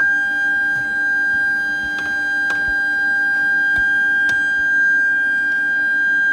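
A steady high-pitched whine held at one pitch, with a few sharp clicks about two, two and a half, and four seconds in.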